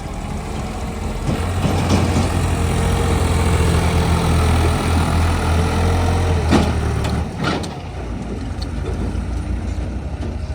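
Heavy diesel engine working under load: it picks up about a second in, holds steady, and eases off after about seven seconds. Two short knocks come near the point where it eases off.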